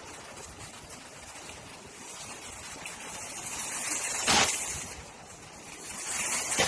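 Storm wind gusting through heavy rain: a steady rushing hiss that swells and fades, with one loud sudden blast about four seconds in and another gust building near the end.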